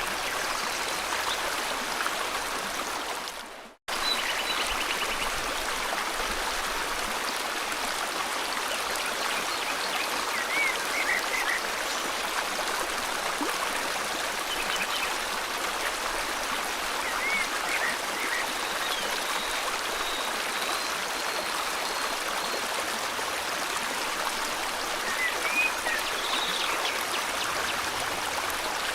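Steady rushing of a river or stream, with short high bird chirps now and then. About four seconds in, the sound fades to silence for a moment, then cuts straight back in.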